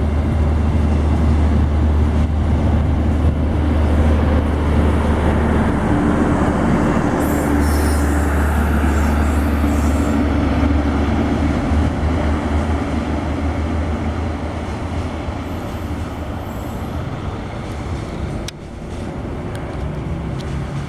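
A diesel-hauled passenger train passing on the rails: a deep, steady locomotive engine drone under the rumble of the coaches on the track. The sound fades gradually over the second half.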